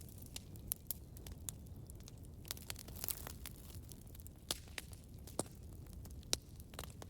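Campfire burning: irregular sharp crackles and pops over a steady low rumble of the flames, the loudest pop about six seconds in.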